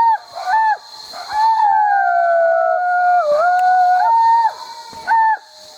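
Dog howling: a few short howls, then one long howl that slowly sinks in pitch, then short howls again.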